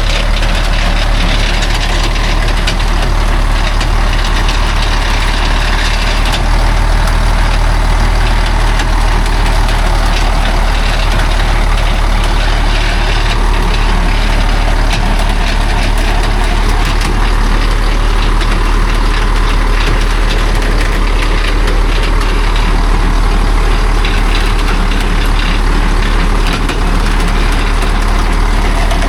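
Heavy logging truck engine running steadily at low revs, a deep even drone with no rise or fall.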